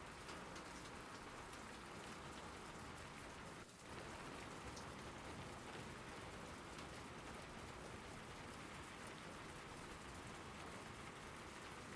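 Steady rain falling, a dense even hiss of drops with many small individual ticks; the sound dips for a moment about four seconds in.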